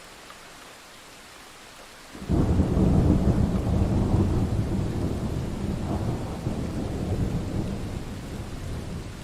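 Thunderstorm: a steady hiss of rain, then a sudden loud thunderclap a little over two seconds in that rolls on and slowly dies away, swelling once more around six seconds.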